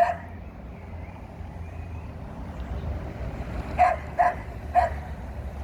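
Dog barking: one bark at the start, then three quick barks close together near the end, over a steady low rumble.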